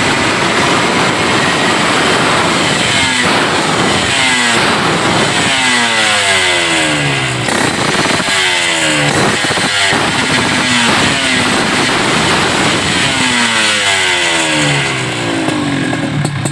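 Suzuki RGR150 two-stroke single-cylinder engine through an aftermarket racing exhaust, revved repeatedly, the revs falling back after each blip and settling to a steady idle near the end.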